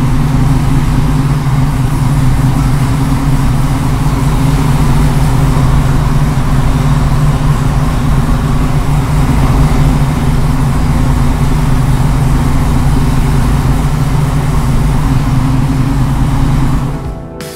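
Freshly rebuilt 427 cubic-inch big-block Chevrolet V8 of a 1969 Camaro SS idling steadily and loud, the pitch holding even with no revving, until it fades out near the end.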